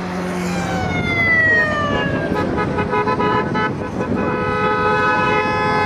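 Horns sounding from a passing column of motorcycles and vehicles over a steady rumble of engines. A long horn drops in pitch as it goes by, then come several short honks, and about four seconds in a long steady horn blast begins.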